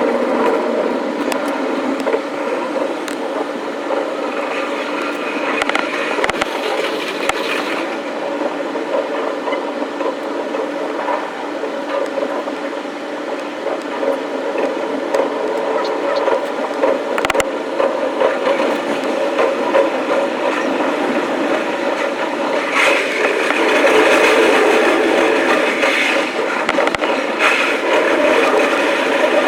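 Electric commuter train running, its sound played back fast: a steady, dense whir with a few brief clicks, swelling louder near the end.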